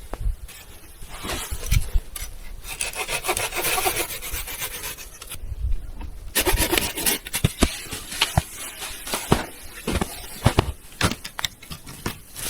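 Rough rasping, scraping strokes in two longer runs, with scattered sharp knocks between them.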